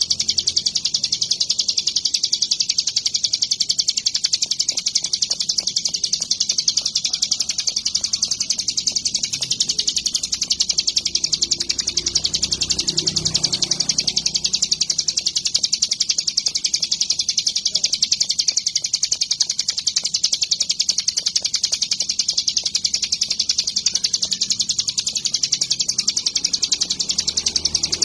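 Ciblek gunung, a mountain prinia, singing a rapid, high-pitched, unbroken chirping song.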